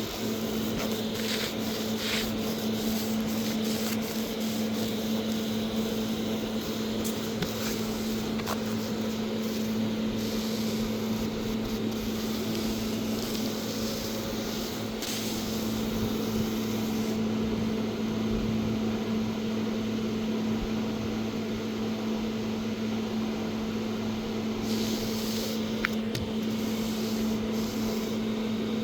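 Steady machine hum with an even hiss underneath and a few faint ticks.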